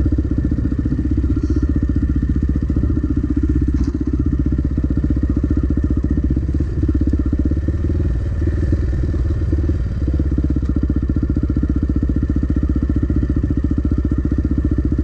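Dirt bike engine running steadily at low revs close to the microphone, with a dense, even firing beat.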